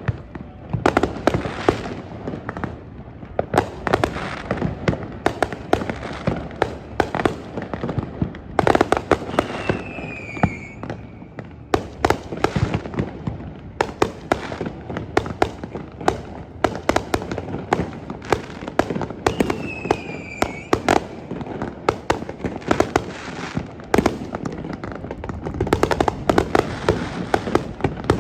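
Fireworks display going off: rapid, continuous bangs one after another, with two short falling whistles about ten seconds apart.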